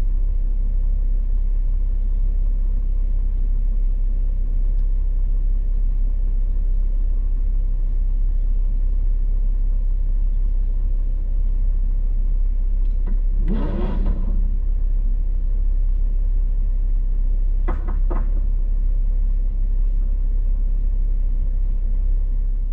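Steady low rumble of an idling vehicle engine, with a brief pitched squeal or call about two-thirds of the way in and two sharp clicks shortly after.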